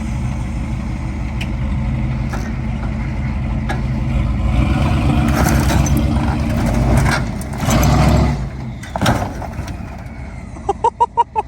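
A stub truck's engine, just started, running and growing louder, with a couple of revs about two thirds of the way through. A quick run of short pulses near the end.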